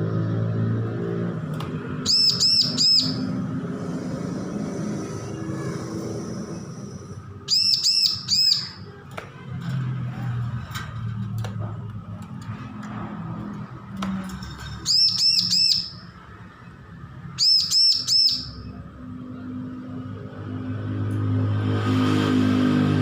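Bar-winged prinia (ciblek) calling in short bursts of three or four quick, high chirps, five bursts spaced a few seconds apart, over a low droning background that swells near the end.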